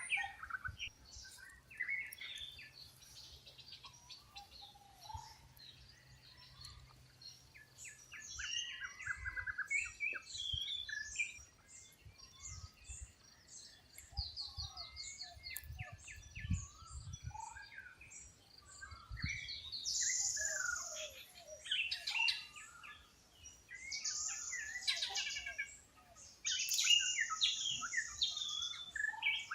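A mixed chorus of wild birds, with many short chirps, whistles and trills overlapping. Louder, harsh buzzy calls come in about twenty seconds in and again over the last few seconds.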